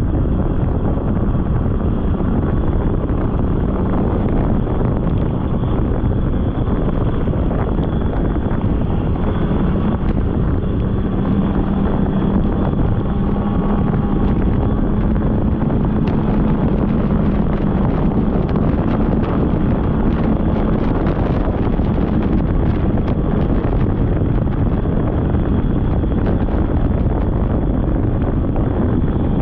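Polaris snowmobile engine running steadily under way, with heavy wind noise on the microphone.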